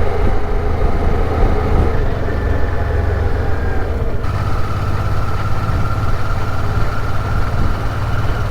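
Honda Deauville V-twin motorcycle running at road speed, heard from the rider's on-board microphone with road and wind noise. Its steady drone shifts to a higher tone about four seconds in.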